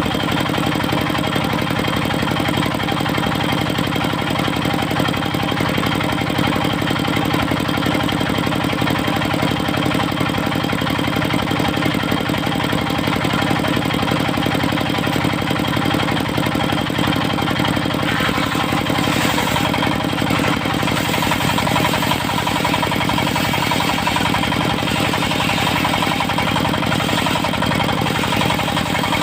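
Engine of a portable circular sawmill running steadily, with a harsher, hissier sound joining in the upper range about two-thirds of the way in.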